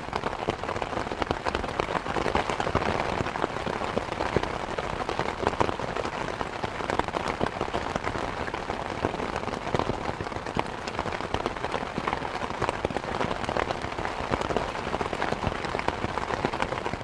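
Steady rain, a dense patter of many drops.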